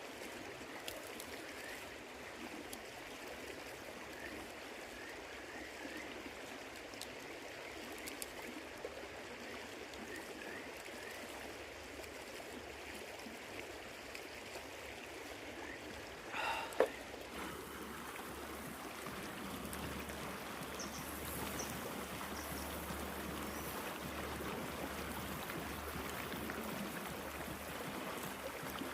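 River water running steadily, with one sharp knock a little past halfway; after it the rush is slightly louder with a low hum underneath.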